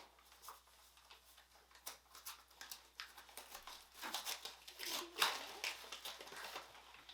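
Packaging crinkling and tearing as a present is unwrapped, in quick irregular crackles that are busiest about four to six seconds in.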